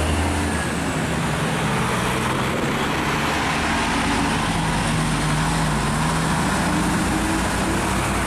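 Heavy truck engines running as queued trucks start moving again in slow traffic. The engine note rises and falls over a steady haze of road noise.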